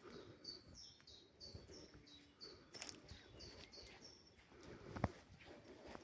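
A small songbird singing a run of short, high repeated notes, about three a second, that stops about four seconds in. Faint low rustling underneath, with a single sharp tap about five seconds in.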